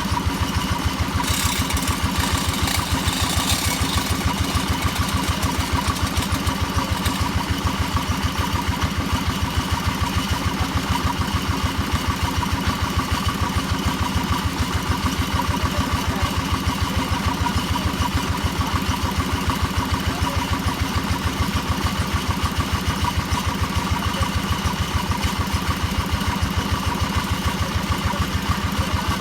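Engine of a hammer (percussion) drilling machine running steadily with a fast, even pulse. A brief hiss comes through about a second in.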